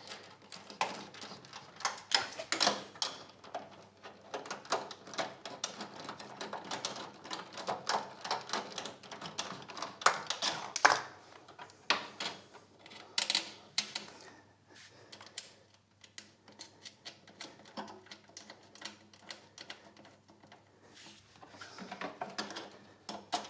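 Irregular clicking and knocking of hardware being handled, dense at first and sparser for a few seconds after the middle.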